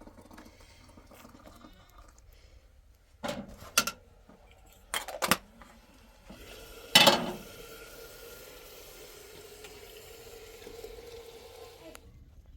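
Metal pots or dishes knocking together in three sharp clatters, the third the loudest. Then water pours steadily for about five seconds and stops suddenly.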